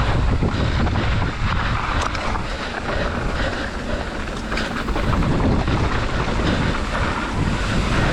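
Mountain bike being ridden fast down a trail: steady wind rush on the microphone with low tyre rumble, dotted with many small rattling clicks from the bike.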